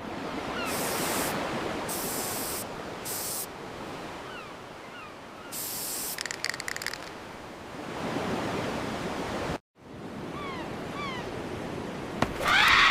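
Steady rushing wind noise on the microphone, with several brief bursts of high hiss and a few faint, short falling chirps. The sound cuts out for a moment near the ten-second mark, and a louder burst comes near the end.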